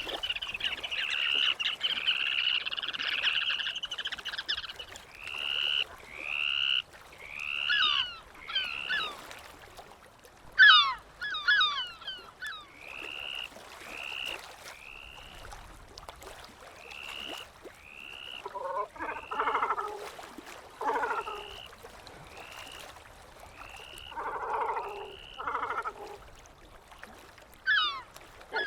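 Seabirds calling: a string of short, high, arched calls repeated over and over, a burst of quick descending squeals about ten seconds in, and lower, harsher calls twice in the second half.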